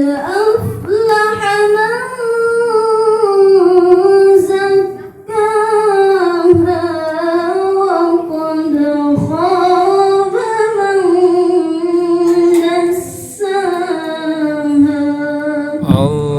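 A woman's voice reciting the Quran in long, ornamented melodic phrases (tilawah), each held note sliding and wavering in pitch. There are short breaks for breath about five, nine and thirteen seconds in.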